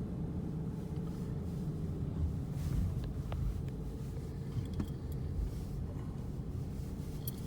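Steady low rumble of a car in motion: road and engine noise heard from inside the cabin.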